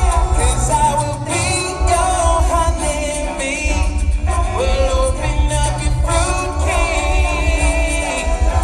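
Male a cappella group singing: a lead voice over layered backing harmonies and a low, pulsing vocal bass line.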